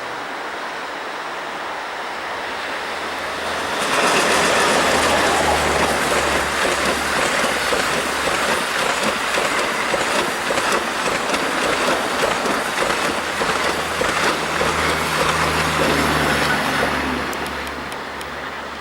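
EP20 dual-current electric locomotive and the Strizh high-speed passenger train passing at speed, with the wheels clattering on the rails. The sound jumps up sharply about four seconds in as the train arrives, stays loud while the cars rush by, and dies away near the end.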